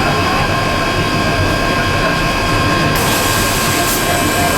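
PE and calcium carbonate pelletizing line machinery running: a loud, steady mechanical drone with several steady whining tones over a low rumble. A high hiss joins suddenly about three seconds in.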